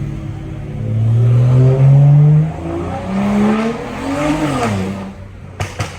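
BMW N55 turbocharged straight-six with a straight-piped exhaust pulling hard, its pitch rising, dipping about two and a half seconds in, rising again, then falling away as the revs drop. A few sharp exhaust pops come near the end.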